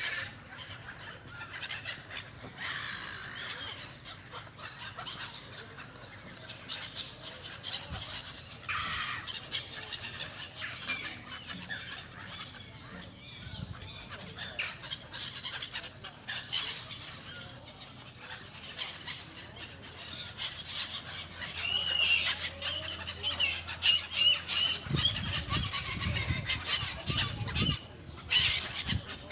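A large flock of birds calling all at once, a dense overlapping chorus of calls that grows loudest in the last several seconds, with a few low thumps near the end.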